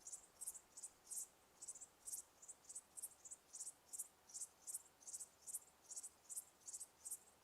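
Crickets chirping: faint, short, high-pitched chirps repeating steadily about three times a second.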